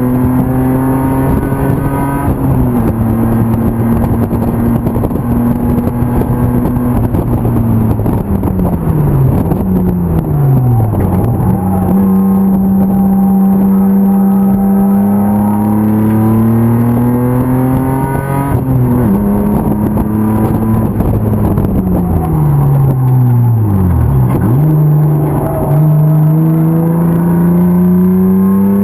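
BMW M50 2.5-litre straight-six in an E36 325 race car at high revs. The pitch holds steady, falls twice as it slows and gears down for corners, then climbs again under throttle, with a sharp drop about two-thirds through at an upshift.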